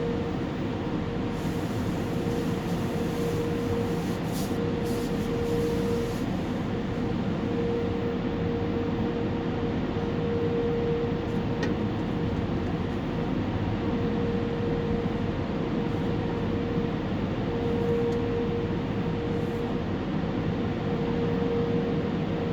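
Automated tunnel car wash machinery running, heard from inside a truck's cab: a steady rumble and hiss, with a humming tone that comes and goes every few seconds.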